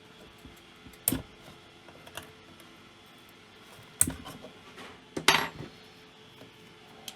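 Small metal tools and parts clinking and clattering as they are handled and set down, with three louder clinks about a second in, at four seconds and a little after five seconds, and a few light ticks between.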